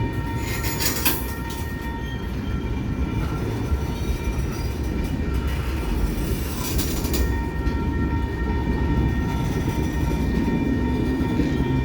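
Freight train rolling past: a continuous rumble of wheels on rail, with a steady ringing tone above it. Short louder rushes come about a second in and again around seven seconds.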